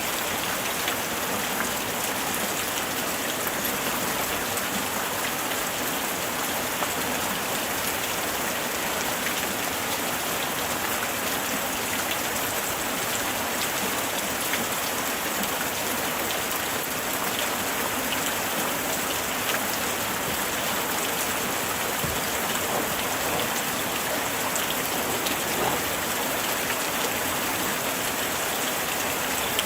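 Steady light rain falling, a continuous hiss with many small drop ticks on surfaces.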